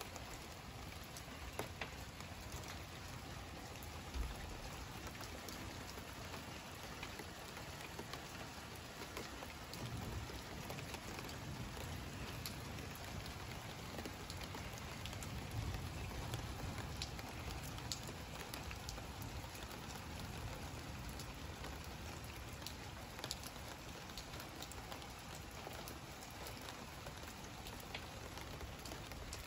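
Steady rain falling, with scattered close drips ticking. A low rumble of distant thunder swells and fades in the middle.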